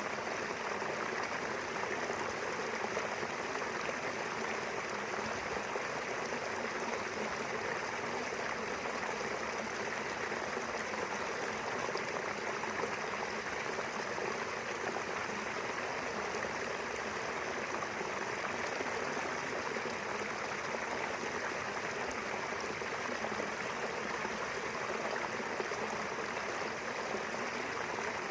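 A small river running steadily, its water making an even, unbroken rushing.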